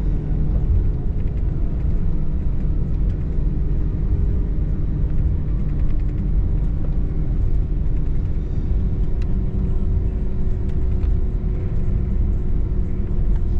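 Airbus A321 cabin noise heard from inside the passenger cabin: a steady low rumble from the jet engines and airflow, with a few faint steady hums that drift slightly in pitch.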